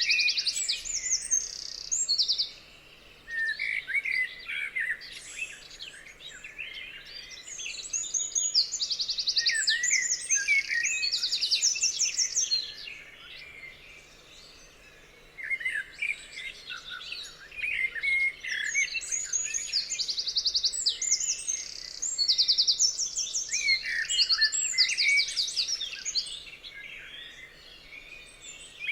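Several songbirds singing together in a chorus of chirps, whistled phrases and rapid trills, coming in busy spells with short quieter gaps.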